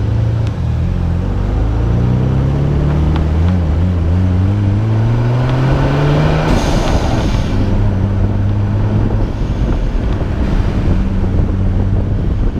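Nissan Skyline R32 GT-R's twin-turbo RB26DETT straight-six pulling hard, its revs rising steadily for about six seconds. As the throttle lifts, the turbo blow-off valve lets out a short hiss, and the engine settles to a steady, lower note. Wet-tyre hiss from the rain-soaked road runs underneath.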